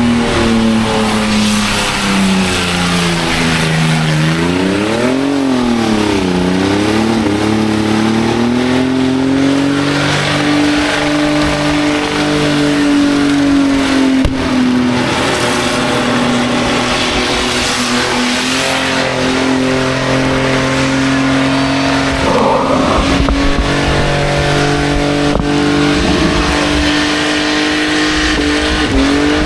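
Car engine held at high revs during a burnout, with the tyres spinning on the pad; the revs dip and climb again about five seconds in, then hold steady near the top.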